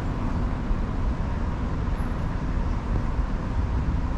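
Steady outdoor city ambience: an even, low rumble of traffic-like noise with no distinct events.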